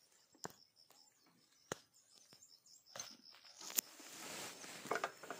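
A bird calling in a fast, even series of short high notes, with several sharp clicks over it.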